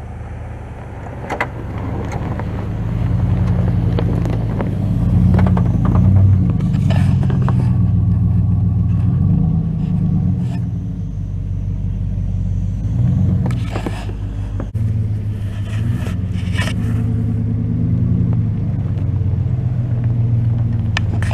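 An engine running steadily and loudly, its pitch rising and falling again and again, with a few sharp clicks and knocks over it.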